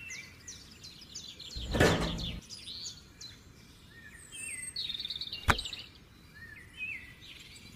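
Small birds chirping repeatedly in short rising and falling calls, with a brief noisy burst about two seconds in and a single sharp click about five and a half seconds in.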